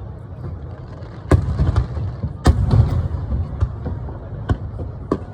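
Fireworks shells bursting overhead: a run of sharp booms, the loudest two about a second and a half and two and a half seconds in, over a steady low rumble of echoes.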